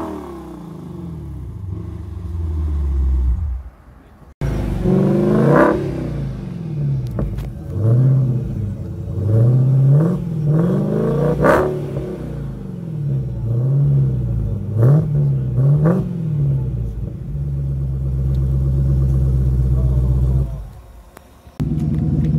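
A Lexus RC F's V8 dropping from a rev back to idle, then a Dodge Challenger SRT's V8 blipped about eight times in quick succession, each rev rising and falling, before settling into a steady idle.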